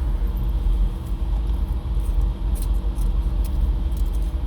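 Automatic car wash machinery running, heard from inside the car cabin: a heavy, steady low rumble with a constant hum and scattered light ticks against the car.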